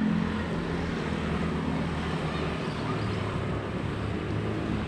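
Steady engine hum of motor-vehicle traffic running nearby.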